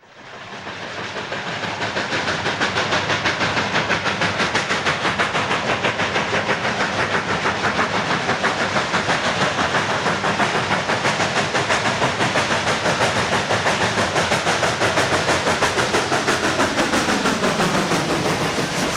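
Coal-fired narrow-gauge steam locomotive running, its exhaust chuffing in a rapid, even rhythm that starts suddenly. A tone falls in pitch near the end.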